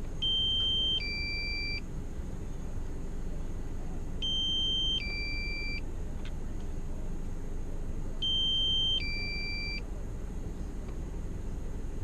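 Two-note electronic warning alert, each note two steady tones at once, repeating every four seconds, three times, over a steady low rumble.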